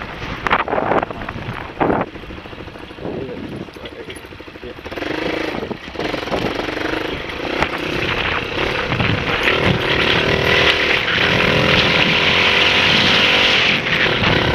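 Honda XLR125 dirt bike's single-cylinder four-stroke engine. A few sharp knocks early on are followed by the engine running from about five seconds in, growing louder and steadier with revving toward the end.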